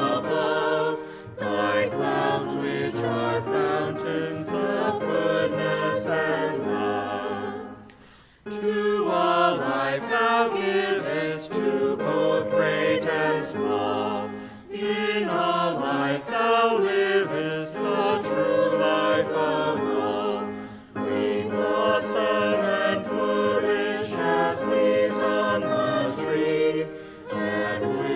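A small mixed group of voices singing a hymn in harmony, with a short pause between each sung phrase of several seconds.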